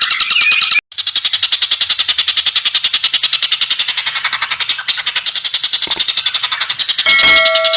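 Tengkek buto kingfisher calling in a fast, even, high-pitched rattling chatter of about ten notes a second, breaking off briefly about a second in. Near the end a short, lower, steady note with overtones sounds for about half a second.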